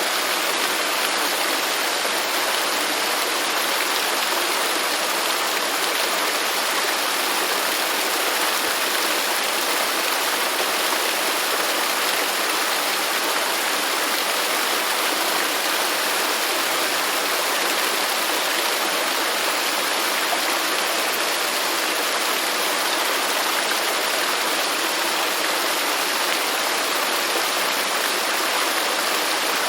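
Waterfall: falling water rushing in a steady, unbroken hiss with no lulls or separate splashes.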